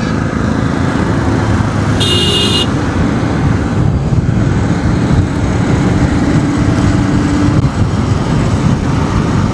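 Motorcycle running at cruising speed with steady rushing road and wind noise, and a short high-pitched beep about two seconds in.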